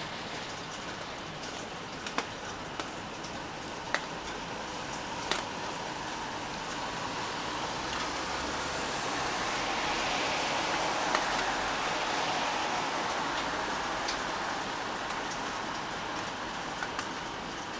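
Steady rain falling, with single drops tapping sharply now and then. Around the middle the rushing sound swells louder and then fades again.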